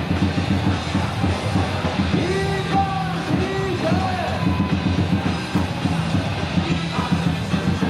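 Stadium cheer song for a batter at a baseball game, played loud with a steady drum beat, with the crowd singing and yelling along.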